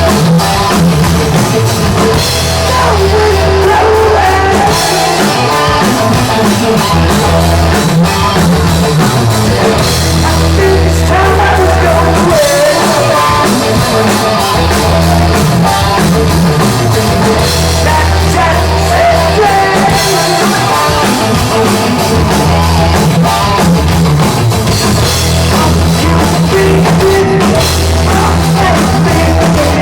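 Hard-rock band playing live, loud and steady, with drum kit, bass and electric guitar.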